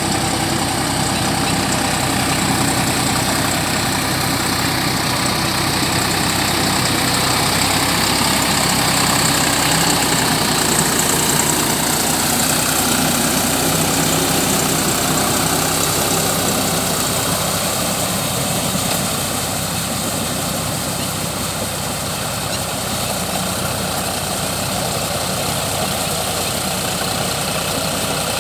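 Deutz-Fahr tractor's diesel engine running steadily, with slight rises and falls in level.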